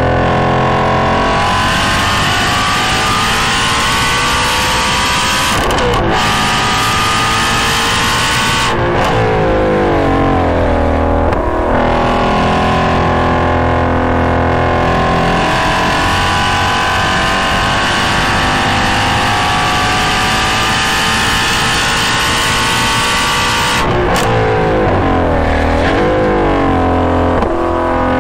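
Shelby GT350's 5.2-litre flat-plane-crank V8 through a GT350R exhaust, heard close to the exhaust, driven hard on track: revs climb, drop at an upshift about six seconds in and climb again, then dip and waver with braking and downshift blips between about nine and twelve seconds in. After that comes one long climb in revs, followed by more downshifts near the end.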